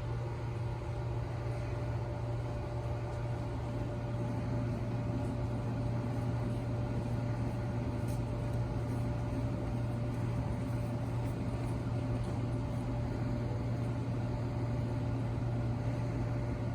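Steady low hum of a JR E257-5000 series electric train standing at the platform, its onboard electrical and air-conditioning equipment running, with a faint constant higher tone over it.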